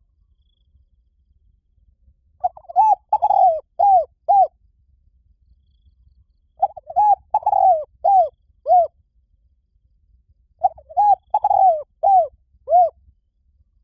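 Spotted dove cooing: three phrases about four seconds apart, each a run of five or six short coos with a longer note in the middle.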